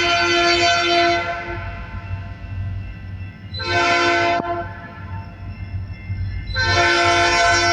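Diesel freight locomotive's multi-chime air horn sounding: a long blast that ends about a second and a half in, a short blast around four seconds, and another long blast starting near the end. Beneath it is the low rumble of the EMD SD40-series locomotive's diesel engine. The long–short–long run fits the end of the long, long, short, long grade-crossing signal.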